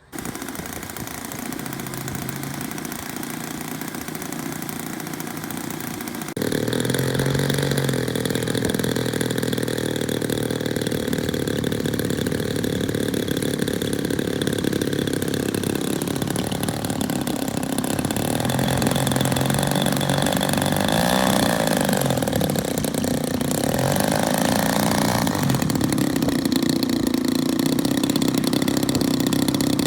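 Small engine of a large radio-controlled WWI warbird model airplane running steadily. It gets suddenly louder about six seconds in, and its pitch shifts up and down a few times later on.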